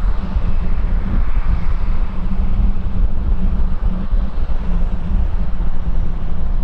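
Wind buffeting the microphone: a heavy, unsteady low rumble with a fainter hiss above it.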